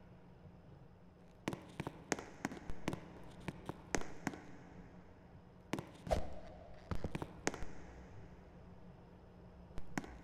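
Ceiling fan running with a low, steady hum, with irregular sharp clicks and knocks scattered through it.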